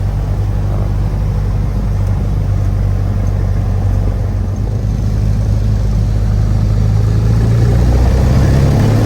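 Cessna 172's piston engine and propeller running with a steady low drone, growing a little louder near the end.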